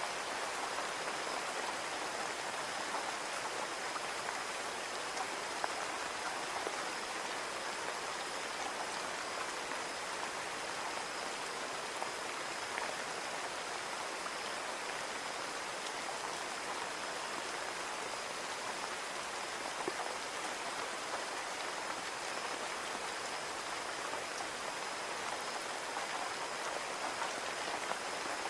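Steady rain falling on a window pane, a constant patter with scattered individual drop ticks.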